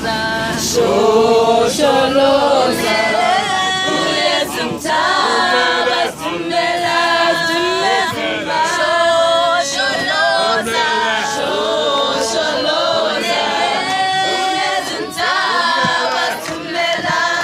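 A Zimbabwean vocal group singing together a cappella in harmony, with a sharp beat about once a second.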